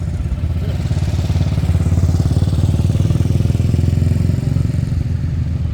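Motorcycle engine running close by, its sound swelling over the first two seconds and easing slightly near the end.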